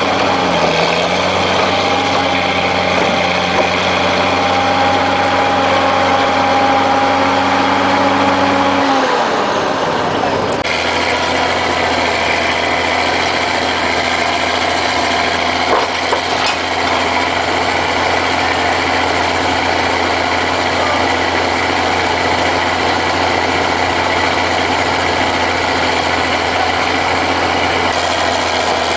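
Heavy vehicle engines running steadily. About ten seconds in, one engine's pitch drops and the sound switches abruptly to a different steady engine drone.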